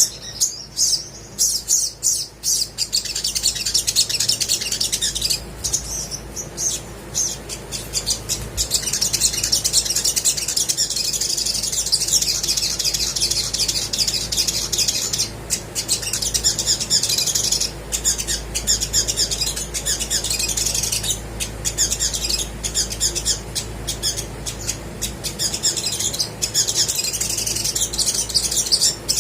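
Olive-backed sunbird singing energetically: rapid, high-pitched chirps and trills in a near-continuous run, with a few separate sharp chirps at first.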